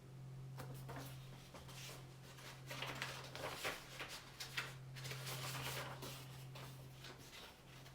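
Soft, irregular scratching and rustling over a steady low hum.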